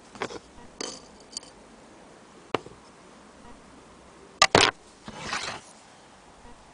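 A few light clinks and clicks of hard objects being handled, then a sharp double knock about four and a half seconds in and a brief scrape right after.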